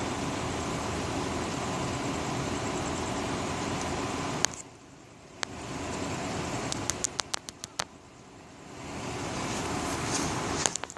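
Thunderstorm noise: a steady rush of rain and wind that cuts off suddenly about four seconds in, then swells back twice, with scattered sharp taps of drops or hail hitting something close by.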